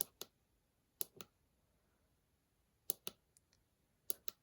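Push button on an LED string-light controller pressed and released four times, each press a pair of sharp clicks, push then let go. Each press steps the lights to their next lighting mode.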